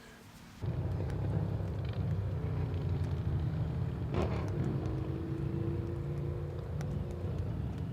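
A steady low rumble comes in suddenly about half a second in. Over it, about four seconds in, a pukeko gives one harsh screeching call.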